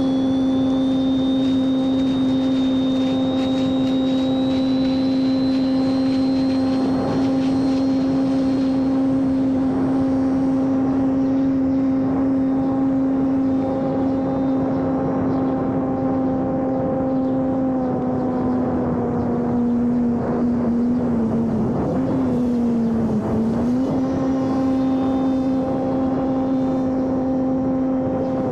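Homemade electric RC airplane's brushless motor and propeller running with a steady hum, with a faint high whine slowly rising over the first few seconds. About three-quarters of the way through, the pitch sags briefly and comes back up.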